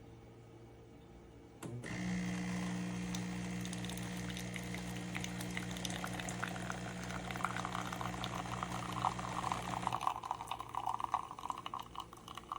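Café Affetto automatic espresso machine's pump starts with a steady hum about two seconds in and runs for about eight seconds while liquid streams into a cup, the pouring sound rising in pitch as the cup fills. The pump then stops and the flow trickles on.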